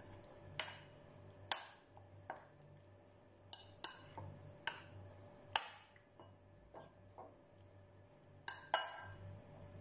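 Metal spoon clinking against a glass mixing bowl while stirring chicken pieces through a wet marinade: about ten sharp clinks at uneven intervals, two of them close together near the end.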